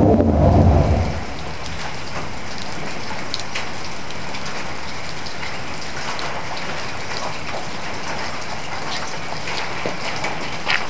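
Chevy S10's straight-piped exhaust, run 2½ inches all the way back, finishes a rev and falls away about a second in. A steady hiss with scattered light crackles fills the rest.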